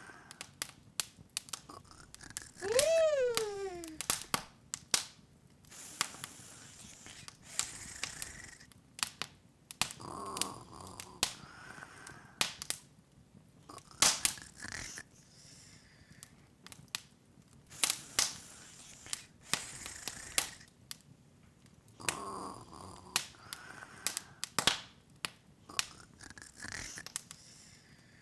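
Open wood fire crackling, with irregular sharp pops and snaps. About three seconds in, a short cartoon-like vocal sound slides up and then down in pitch.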